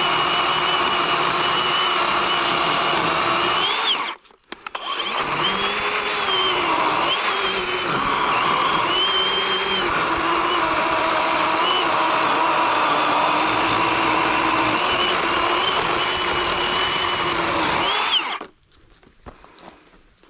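Worx WG384.9 40-volt cordless electric chainsaw cutting a downed tree: a steady motor whine whose pitch sags and recovers as the chain bites. It stops briefly about four seconds in, runs again, and cuts off near the end.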